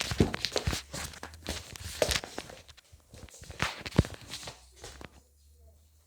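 Irregular footsteps and light knocks, steps on a hard floor, busy for about five seconds and then dying away.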